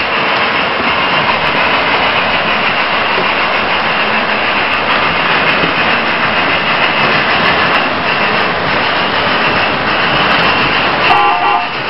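Model trains running on the layout: a steady rolling rush of wheels on track and motors, with a short pitched sound near the end.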